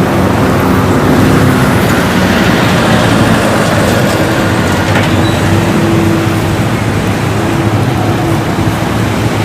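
A loud, steady rushing and rumbling noise with faint held tones underneath.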